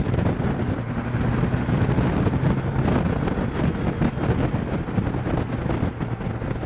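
Honda Valkyrie's flat-six engine running steadily under way, with wind rushing over the microphone. The engine's hum is clear in the first half, then sinks under the wind noise.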